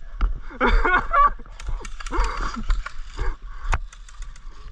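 Rubber chicken toy squeezed, letting out wavering honking squawks twice, with a sharp click near the end.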